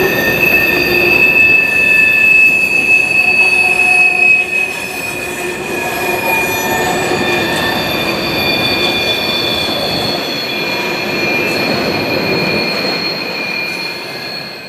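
Steel wheels of a freight train's cars squealing as the train rolls past, several high steady screeching tones over the rumble of the cars. The sound eases a little partway through and fades near the end.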